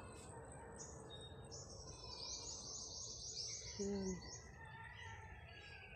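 Small birds chirping high and thin outdoors, with a rapid, high-pitched trill lasting about two seconds starting around a second and a half in.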